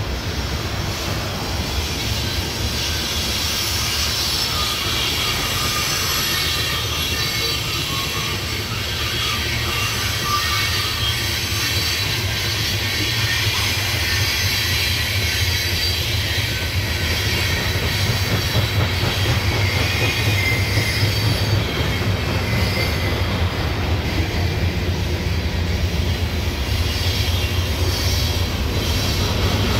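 CSX coal train's hopper cars rolling steadily over a stone arch bridge: a continuous low rumble of wheels on rail, with high-pitched wheel squeal coming and going.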